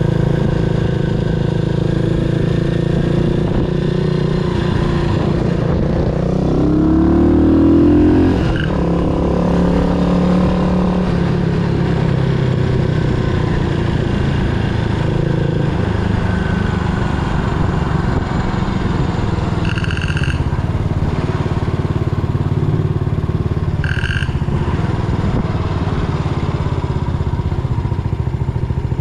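Yamaha SR400's air-cooled single-cylinder engine running under way. About six seconds in it revs up, then drops off suddenly at a gear change. Two short high beeps come near the middle.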